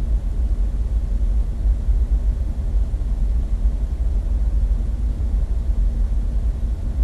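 Jeep Wrangler JK engine idling, a steady low rumble heard from inside the cab.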